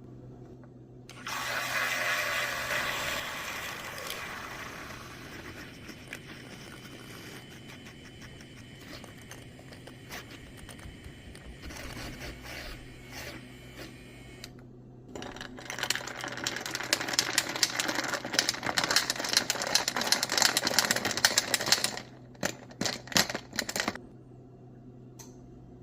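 Kitchen sounds of an iced coffee drink being made. About a second in comes a hiss-like pour that fades over several seconds. Later there is a long run of fast rattling clicks, then a few separate clicks, over a low steady hum.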